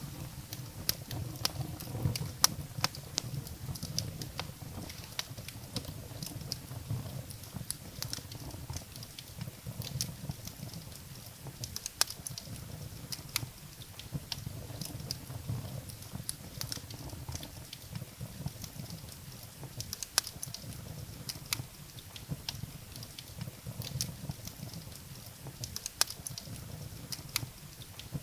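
Wood fire burning in a fireplace: firewood crackling and snapping in irregular sharp pops, some louder than others, over a steady low rumble of the flames.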